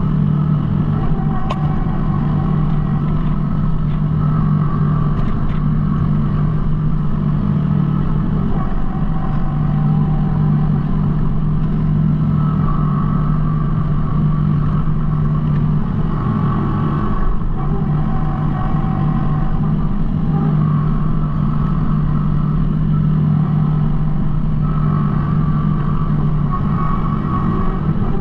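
Kubota B2650 compact tractor's three-cylinder diesel engine running steadily, a constant low drone with a higher whine that comes and goes every few seconds.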